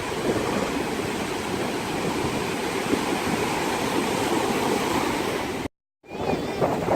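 Ocean surf washing onto the beach in a steady rush, with wind buffeting the microphone. The sound cuts out for a moment near the end.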